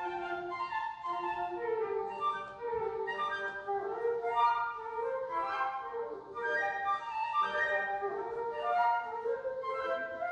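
Flute trio of piccolo, flute and alto flute playing a classical piece, with several lines of short notes moving together.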